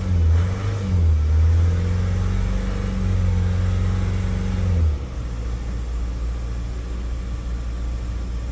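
Mazda CX-5 2.2 twin-turbo diesel engine running just after being restarted, its revs held up and wavering at first, then dropping to a lower idle about five seconds in. The engine keeps running without stalling on its newly replaced fuel filter and feed pump assembly.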